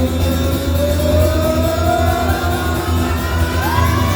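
Rock band playing live with electric guitar, bass and drums. A sustained note glides slowly upward in pitch over a steady low bass.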